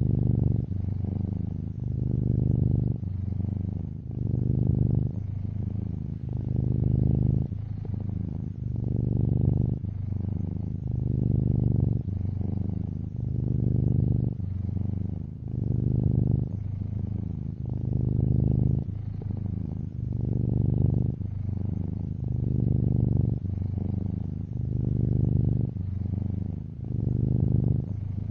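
Domestic cat purring steadily and close up, a low buzzing purr that swells and eases about every two seconds as the cat breathes in and out.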